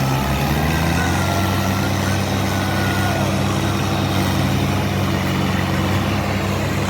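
Tractor diesel engine running steadily, its pitch rising slightly in the first second and then holding.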